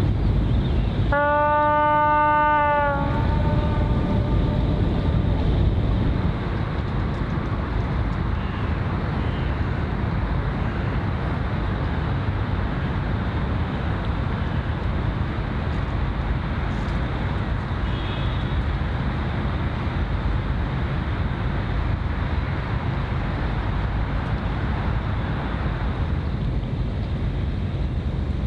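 A ship's horn sounds one blast of about two seconds, about a second in, with a short echo trailing after it, over a steady low rumble and wind noise.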